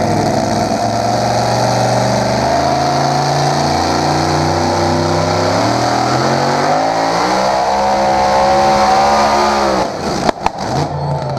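Pulling vehicle's engine at full throttle under load on a tractor-pull sled, its pitch climbing steadily, then falling away suddenly near the end with a few sharp pops. This is the sign of the engine leaning out, which the announcer calls a mechanical fault.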